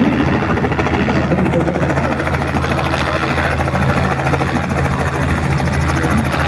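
Helicopter running, a steady low drone with a fast, even beating from its rotor.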